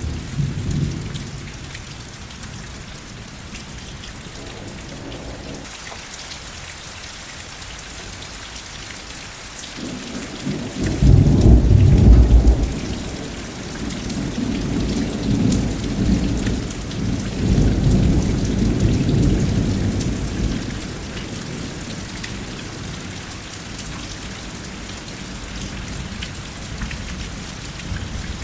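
Steady rain falling, with a roll of distant thunder that swells about ten seconds in, peaks briefly, and rumbles on in waves for about ten seconds before fading back to the rain.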